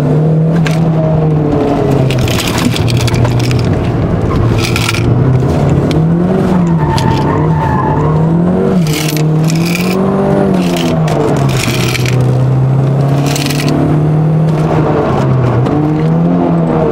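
A 1992 Toyota MR2 Turbo's 2.0-litre turbocharged four-cylinder engine heard from inside the cabin under hard driving. The revs hold steady for stretches and rise and fall several times in the middle, with short bursts of hiss now and then.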